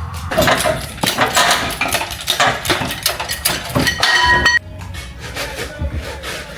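Metal clanking and knocking, repeated sharp impacts with a brief ringing metallic clang about four seconds in, then it stops suddenly.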